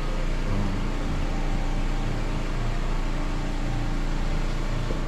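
Steady machine noise: a low hum under an even rushing hiss, unchanging throughout.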